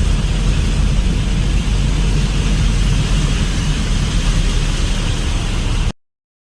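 Heavy rain pouring steadily, with a strong low rumble under the hiss; the sound cuts off abruptly near the end.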